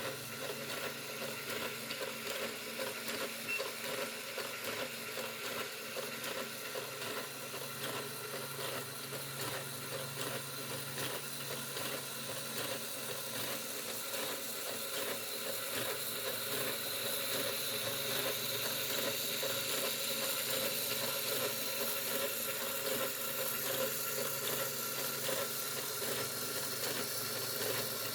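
Mould King 10087 plastic building-block L4 engine model running, its gears and moving parts clattering in a rapid, steady stream of clicks. It grows a little louder about halfway through.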